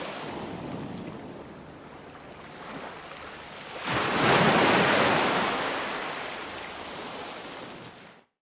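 Ocean waves breaking on a shore: a steady wash of surf, then a wave crashing about four seconds in and slowly washing back out. The sound cuts off abruptly just before the end.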